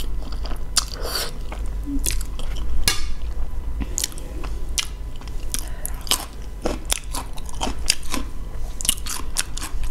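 A person chewing a mouthful of cheese-covered instant ramen noodles close to the microphone: irregular wet mouth clicks and smacks, several a second.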